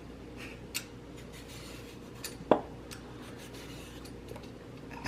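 Vegetable peeler scraping the skin off a cucumber in short, repeated strokes, with one sharp knock about two and a half seconds in.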